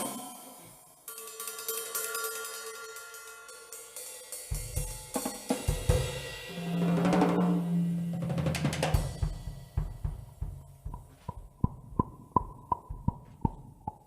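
A band playing a free instrumental improvisation, a drum kit with cymbals and snare under sustained instrumental tones, with a sweeping pitch in the middle. From about ten seconds in, a quick, even pulse of sharp hits takes over.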